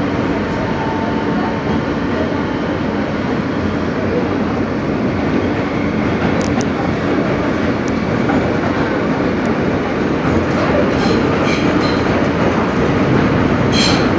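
Interior of an R160B subway car running at speed: a steady rumble of wheels on rail with clattering over the track, growing slightly louder, and a few short, high screeches of wheel on rail near the end.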